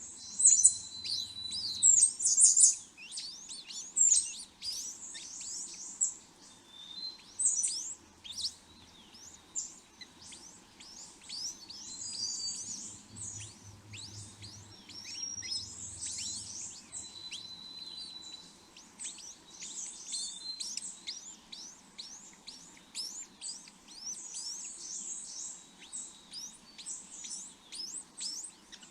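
Small birds chirping rapidly: a dense run of short, high chirps that sweep downward in pitch, loudest in the first few seconds.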